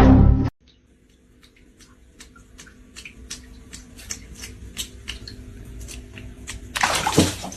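A run of sharp clicks or taps, a few a second, ending in a short burst of noise near the end.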